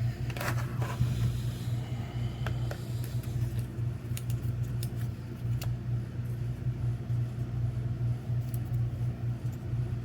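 Steady low mechanical hum, with a few light clicks and taps scattered over it.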